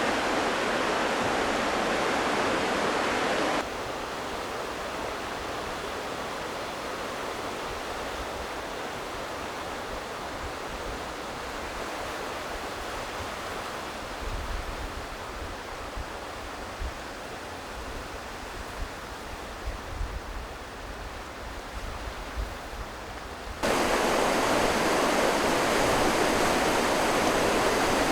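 Steady wash of sea waves and surf. It drops to a softer level about four seconds in, with low gusts of wind buffeting the microphone through the second half, then jumps back to the louder surf near the end.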